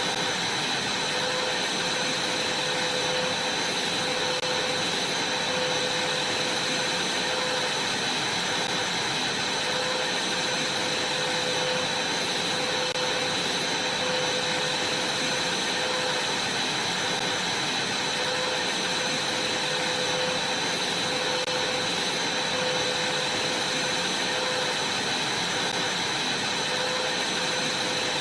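Vacuum cleaner running steadily as it vacuums a trampoline, a constant airy rush with a thin high whine and a lower hum that wavers slightly.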